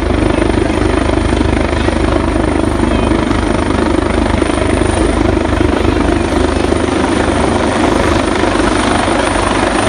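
A helicopter running steadily, its rotor and engine noise loud and even.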